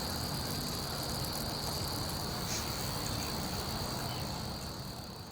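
Crickets chirring as a steady high-pitched drone over a hiss, fading out near the end.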